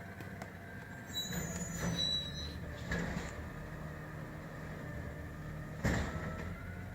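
Garbage truck running steadily, with metallic clanks, the loudest near the end, and a brief high squeal a little over a second in.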